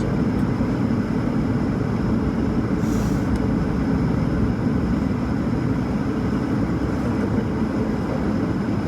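Steady cabin roar of an Airbus A220-300 in flight: its Pratt & Whitney PW1500G geared turbofans and the rush of air over the fuselage, deep and unchanging.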